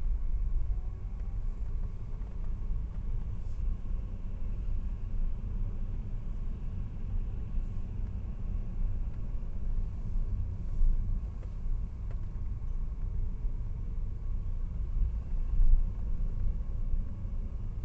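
A car's low engine and road rumble, heard from inside the cabin: a steady drone with a faint steady tone above it.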